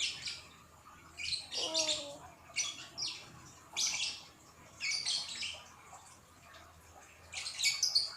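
A bird chirping in short bursts, about six times, at irregular intervals.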